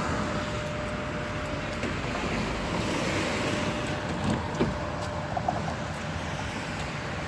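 Tram running along the track: a steady rumble of wheels on rails with a faint steady tone above it, and a few light knocks about four and a half seconds in.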